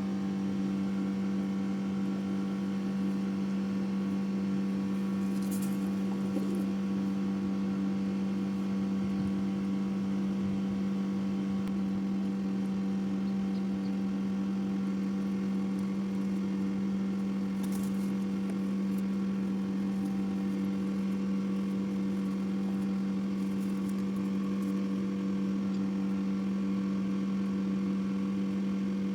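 Steady machine hum holding one constant pitch throughout, with a couple of faint clicks.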